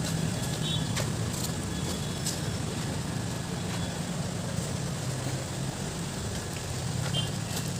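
A motor vehicle engine running steadily, with a low hum and road noise and a few faint clicks.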